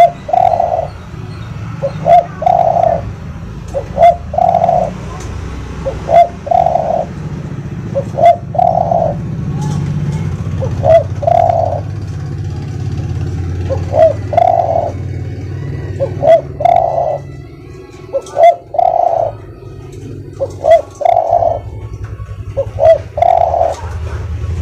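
Spotted dove (tekukur) singing its soft cooing song: a short note or two followed by a longer coo, repeated about every two seconds, over a steady low hum.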